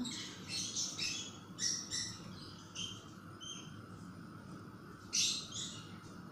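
Birds chirping in short, quick calls, with a loud cluster about five seconds in, over a steady low hiss.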